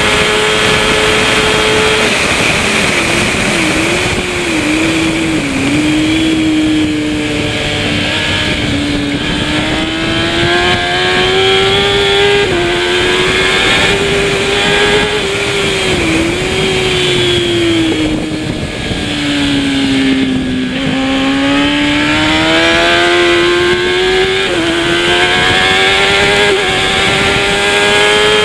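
Kawasaki ZX-10R superbike's inline-four engine at racing revs. Its pitch falls with quick blips about two seconds in and again near the middle, as the bike brakes and downshifts. It climbs steadily under acceleration, with sharp drops at upshifts around twelve seconds and twice near the end, over a constant rush of wind.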